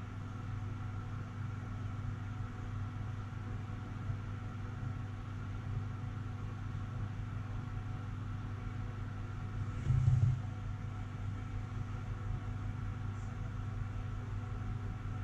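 Steady hum of a dehumidifier's fan running, with one short thump about two-thirds of the way through.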